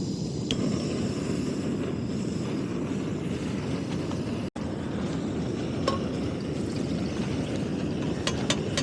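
A backpacking stove's burner running with a steady rushing hiss as it heats water, with a few light clicks near the end.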